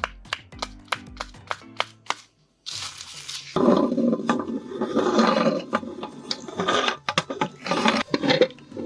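Background music with a steady beat, then, after a brief break, a meat grinder running and crushing a silicone pop-it toy: a dense grinding, crackling and rubbing noise that keeps on.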